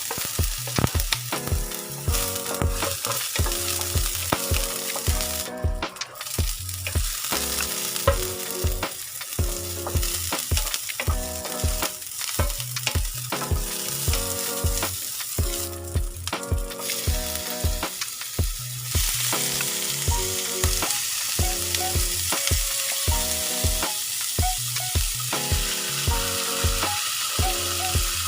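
Food sizzling and frying in a pan, with some stirring, over background music with a steady beat. The sizzle gets louder about two-thirds of the way through.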